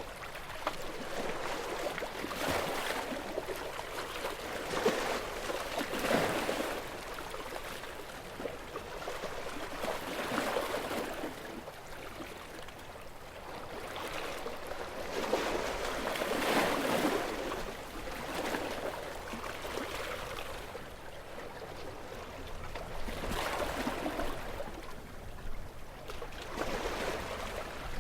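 Small, gentle waves washing onto a shore, the wash swelling and easing back every few seconds.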